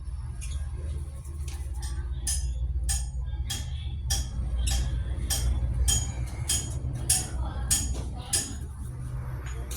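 Repeated sharp metallic clinks with a bright ring, roughly one to two a second at an uneven pace, over a low steady hum. This fits metal parts being tapped while valve springs are fitted on an Isuzu 6HK1 cylinder head.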